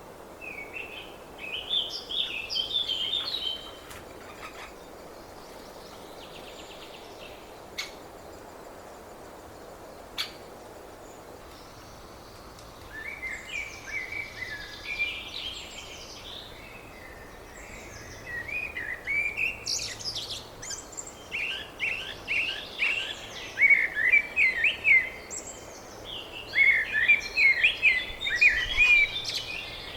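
Birds chirping in bursts of quick, high calls, sparse at first, then coming more often and louder over the second half, over a steady outdoor background noise.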